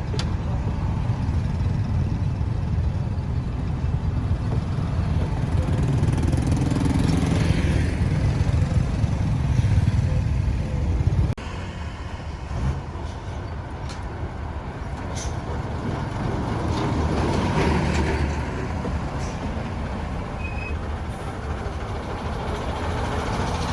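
Road traffic noise: a steady low rumble of passing vehicles, with heavy engines among them, that drops suddenly to a quieter rumble about halfway through.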